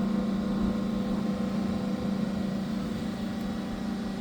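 Steady, unchanging low mechanical hum of a running machine, with no welding arc crackle.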